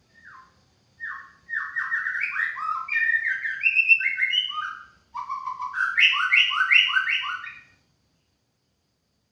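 White-rumped shama singing: two phrases of quick, repeated down-slurred whistled notes, the second starting after a brief break about five seconds in.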